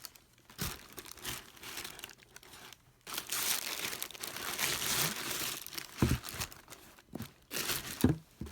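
Packaging crinkling and rustling as a parcel is unwrapped by hand, with a few soft knocks. The rustling turns dense and steady about three seconds in.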